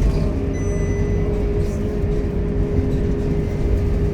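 Scania K230UB Euro V city bus under way, heard from inside: a low drivetrain and road rumble with a steady whine held throughout. A brief faint high electronic tone sounds about half a second in.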